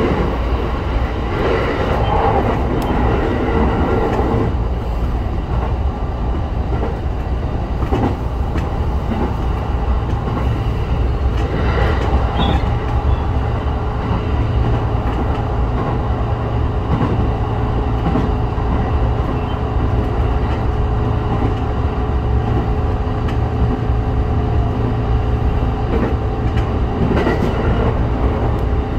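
Train running along the line, heard from inside the front of the car: a steady low rumble of wheels on rail with a constant hum, broken by a few scattered clacks over rail joints.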